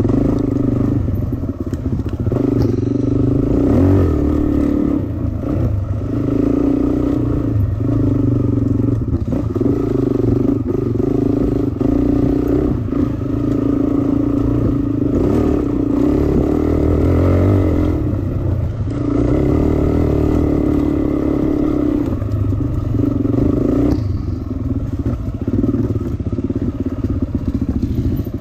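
Dirt bike engine running hard under throttle. The revs rise and fall, and the throttle is cut briefly every few seconds, at roughly 5, 9, 19 and 24 seconds in.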